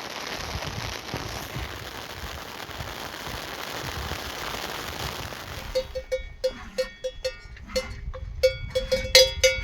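Steady hiss of rain. About six seconds in, a metal livestock bell starts clanking in quick, irregular ringing strokes, several a second.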